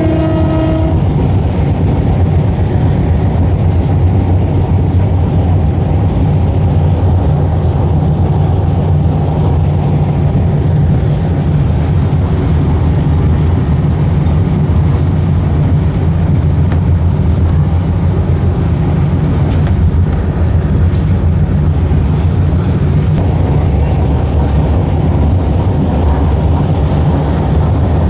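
Steady rumble of an Adelaide Metro diesel commuter railcar running along the line, heard from inside the compartment beside the driver's cab. A brief pitched tone sounds about a second into it.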